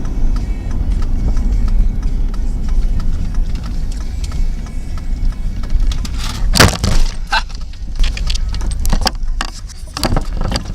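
Steady low rumble of a motor vehicle, with a run of sharp clicks, knocks and rattles in the second half, the loudest a little past the middle.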